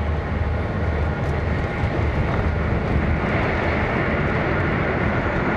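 Cabin noise inside an E1 series Max Shinkansen running at high speed: a steady roar and low rumble of wheels on rail and rushing air, a little brighter in the second half as the train runs through a tunnel.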